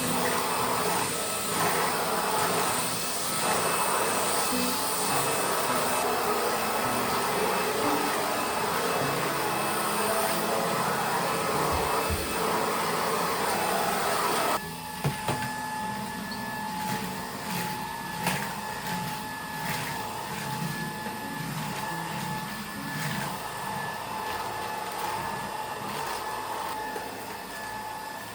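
A vacuum cleaner running with a steady hum. About halfway through, the sound drops abruptly to a quieter, higher steady whine with scattered clicks and knocks.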